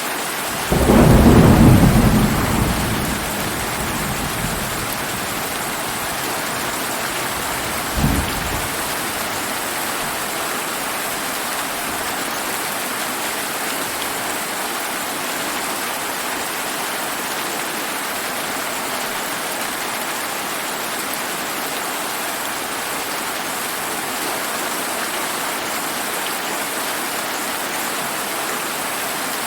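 Steady heavy rain with a loud thunderclap about a second in, rumbling and dying away over the next few seconds, and a short, sharper crack of thunder at about eight seconds.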